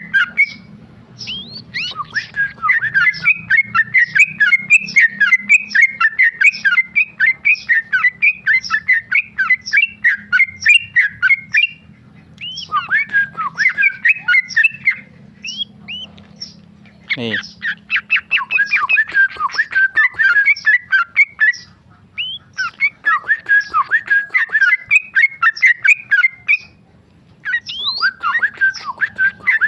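Yellow-vented bulbul (trucukan) singing in long runs of fast, chattering notes. The first run lasts about ten seconds, followed by several shorter runs with brief pauses between them.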